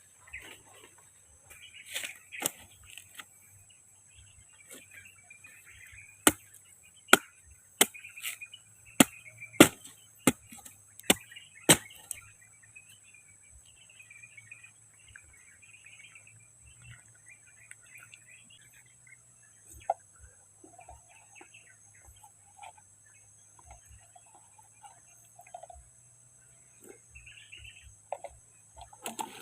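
A run of about nine sharp knocks or strikes over some six seconds, a quarter of the way in, with faint chirping around them.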